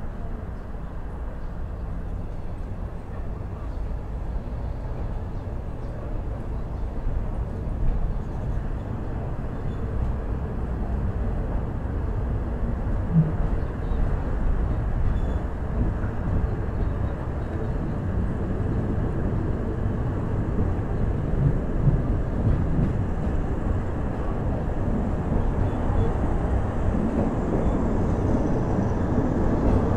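Third-class passenger train carriage in motion, heard on board: a steady low rumble that grows gradually louder, with a few brief knocks.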